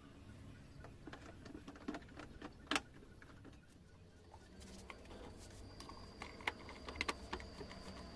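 Scattered light clicks and knocks over a low steady hum, the loudest a sharp knock about three seconds in. A faint, high, steady whine comes in about halfway through.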